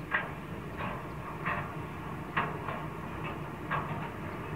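NR class and 81 class diesel-electric locomotives hauling a loaded steel train over an iron viaduct: a steady low engine drone with sharp metallic clicks from the train, about one a second at uneven spacing.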